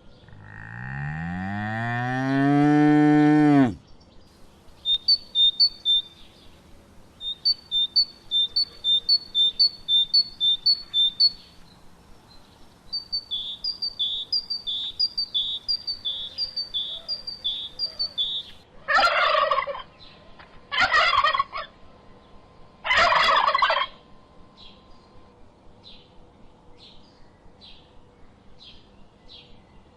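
A cow's drawn-out moo that rises and then falls, ending about four seconds in. Then a long run of high, quick bird chirps in short strings, and later three harsh calls of about a second each, some two seconds apart, from farm fowl.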